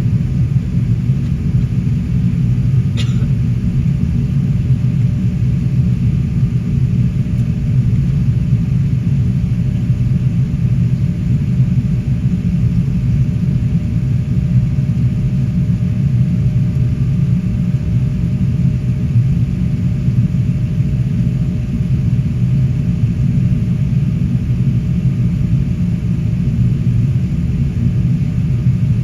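Steady low rumble of a Qantas Airbus A380 heard from inside the cabin, the airliner's engine and airframe noise holding level, with a short click about three seconds in.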